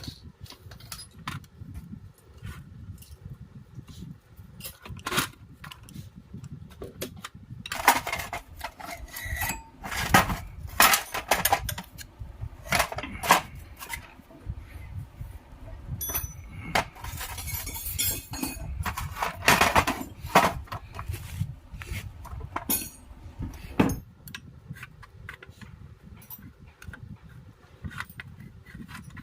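Metal tools and parts clinking, tapping and scraping in irregular clusters during hand work on a starter motor, over a low rumble that cuts off near the end.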